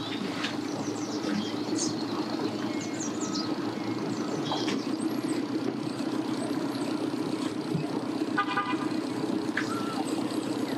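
An engine runs steadily with a low, even hum while birds chirp over it. About eight seconds in, a short toot sounds.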